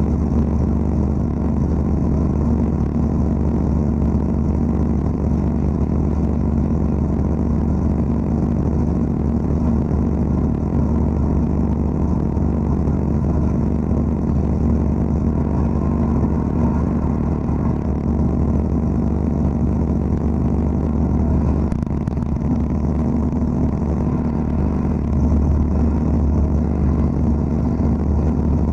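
Wet abrasive blasting (aquablasting) cabinet at work cleaning an engine block: a steady, unbroken machine noise with a deep hum.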